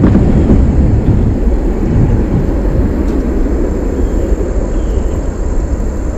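Wind buffeting the microphone outdoors: a loud, rough, fluctuating low rumble with no steady tone in it.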